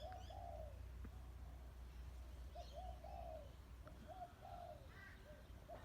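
A dove cooing faintly in short repeated phrases of two or three low notes, a phrase every second or so, with a few faint higher bird chirps among them.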